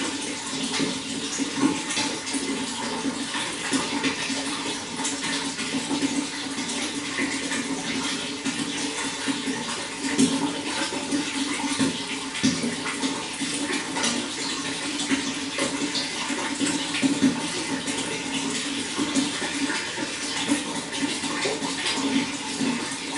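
Running water flowing steadily, with a constant rush and many small splashes and gurgles throughout.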